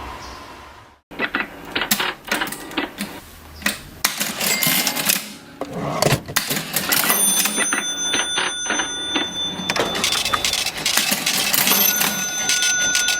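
Vintage mechanical cash register being worked: rapid runs of key and lever clicks and mechanical clatter, with steady high ringing tones held from about seven seconds in.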